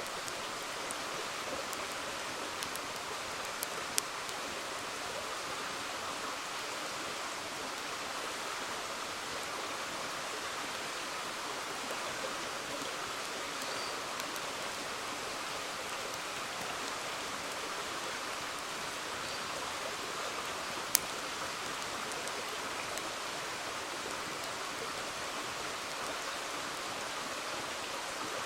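River water flowing steadily, with a few sharp pops from a wood campfire, the loudest about three-quarters of the way through.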